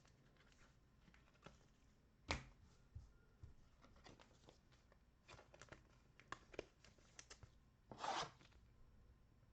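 Faint handling of trading cards and packs: a sharp tap about two seconds in, scattered light clicks as cards are handled, and a short rip near the end like a foil card pack being torn open.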